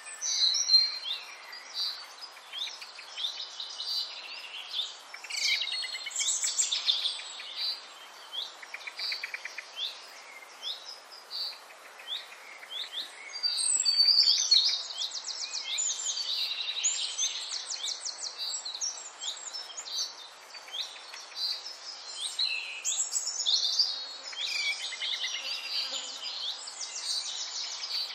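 Songbirds chirping and trilling continuously, many quick high calls overlapping, with a louder run of trills about halfway through.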